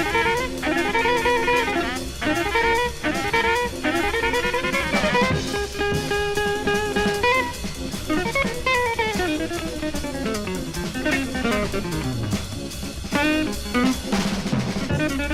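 Instrumental soul-jazz: electric jazz guitar playing quick melodic runs over a drum kit, with a few held notes in the band near the middle.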